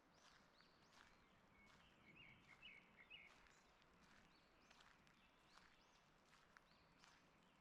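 Faint birdsong: several birds calling with short chirps and arched notes, with a quick run of chirps about two to three seconds in, over a faint steady hiss.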